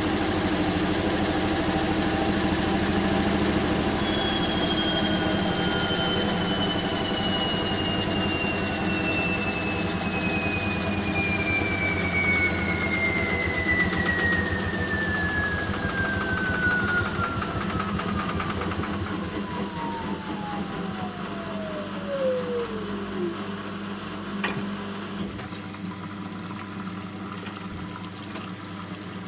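Bosch WAN28220FF washing machine slowing down after a spin: the drum motor's whine falls steadily from high to low over about twenty seconds and dies away, over a low mechanical hum, with a few clicks near the end.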